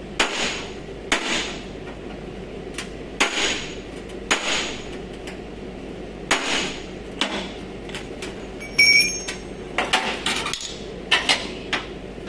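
Hammer blows on metal body parts, about a dozen irregular strikes spaced half a second to two seconds apart, one of them ringing briefly about nine seconds in.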